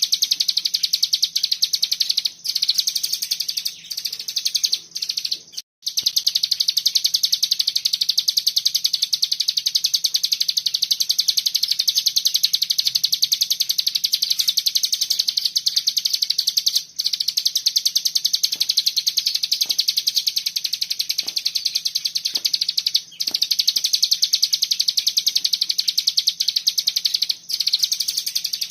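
Ciblek gunung (cigun) singing its 'bren' song: a long, very rapid, high-pitched buzzing trill. It runs almost without a break, with a few short pauses.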